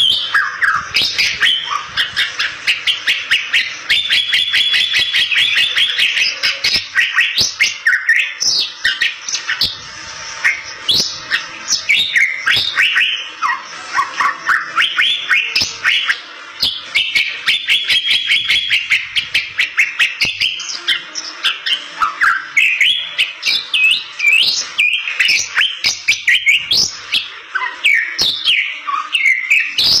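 Bali myna (Bali starling) in full, continuous song: a varied stream of sweeping whistles, chirps and rapid clicking notes. A long buzzy trill comes about four seconds in and again about sixteen seconds in.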